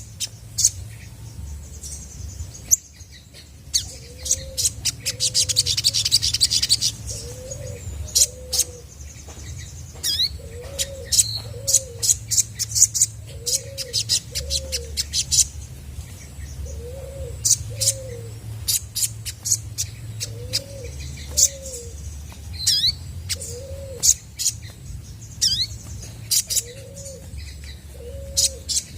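Olive-backed sunbird calling: rapid, sharp, high chirps and quick down-slurred notes, with a buzzy trill about five seconds in. Beneath it, a lower two-note call from another bird repeats every couple of seconds.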